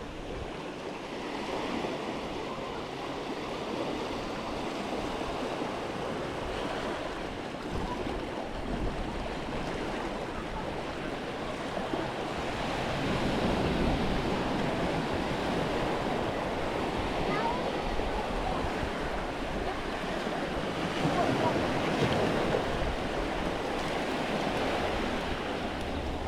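Sea waves washing onto a beach, rising and falling in slow swells, with some wind on the microphone.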